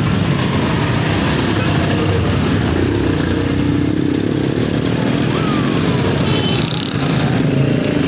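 Motorcycle engine running steadily while riding, a dense low rumble. A faint falling whine comes about five seconds in.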